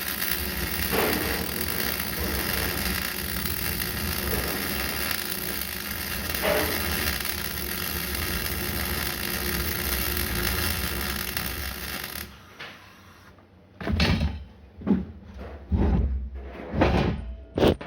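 A steady hissing noise that cuts off suddenly about twelve seconds in, followed by a series of separate knocks and clanks.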